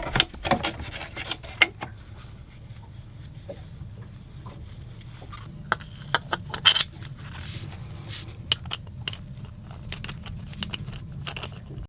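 Scattered clicks, taps and scrapes of hands and tools fitting a new primary diesel filter back onto a boat's diesel engine, over a steady low hum.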